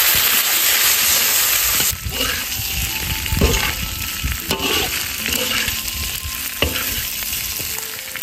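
Sliced cured pork belly sizzling in hot oil in a large iron wok, stir-fried with a metal spatula that scrapes and knocks against the pan. The sizzle is loudest at first and drops sharply about two seconds in.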